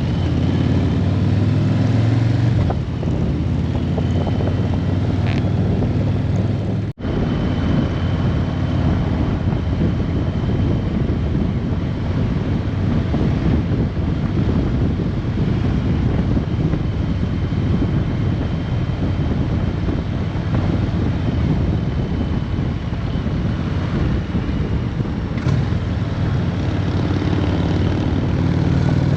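Motorcycle engine running under way with heavy wind noise on the microphone, as from a bike riding in a group ride. The sound cuts out for an instant about seven seconds in.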